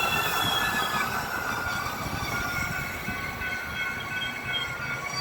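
Metra commuter train rolling past, its steel wheels squealing in thin, high, steady tones over the rumble of the wheels on the rails.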